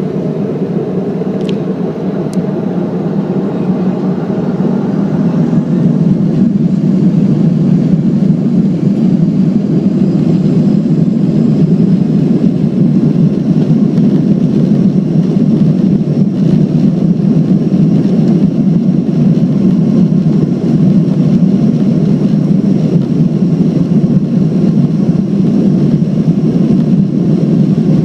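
Boeing 737-500's twin CFM56-3 turbofan engines at take-off power: a loud, steady, deep noise. It grows louder about six seconds in as thrust builds for the take-off roll.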